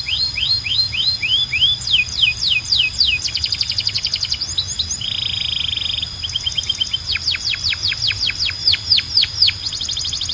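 A domestic canary singing a varied song of repeated phrases. It runs from quick rising whistles, about three a second, into rapid trills, then a short buzzy roll about halfway through, then a run of falling sweeps before the rising whistles return near the end.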